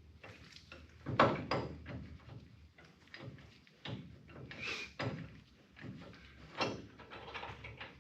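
Irregular metallic clanks and knocks of hand tools and brake parts being handled, the loudest about a second in, with one short ringing clink near the middle.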